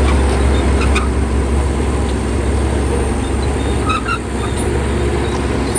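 Bulldozer's diesel engine running steadily with a deep, loud rumble, with a few short faint squeaks about four seconds in.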